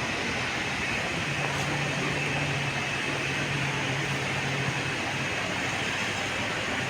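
Steady noise of an MTR East Rail line R-train, with a low steady hum that comes in about a second in and fades about five seconds in.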